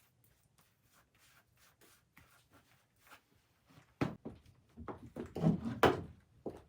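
Faint scattered clicks, then about four seconds in a run of knocks and clattering as objects are handled and set down.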